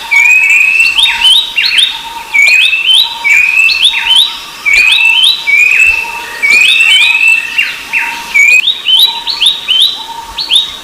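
Babbler song, one phrase repeated about every two seconds: a longer whistled note followed by a quick run of short down-slurred notes that step up in pitch. A fainter, lower steady note sounds alongside each phrase.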